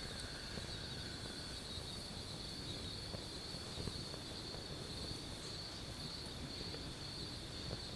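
Night insects, crickets or similar, trilling in one steady high drone over a low, even hiss.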